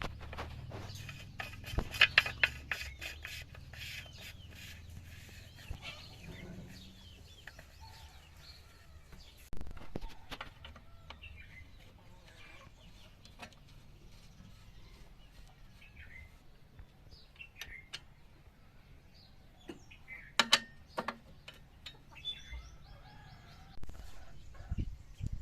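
Chickens clucking, with scattered sharp clicks and knocks, thickest about two seconds in and again around twenty seconds in.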